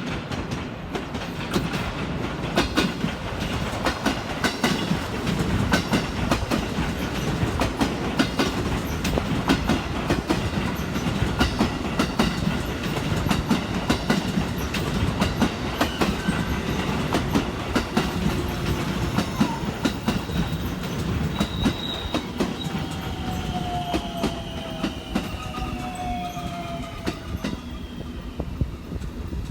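Electric special rapid train running into a station platform, its wheels clacking over the rail joints. In the last few seconds a falling whine is heard as it slows to a stop.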